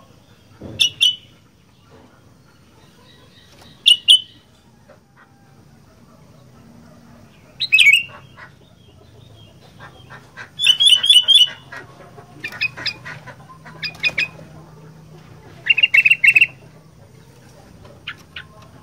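Sooty-headed bulbul (kutilang) singing in short bursts of loud chattering notes, about seven phrases, with quick runs of repeated notes near the middle and again near the end.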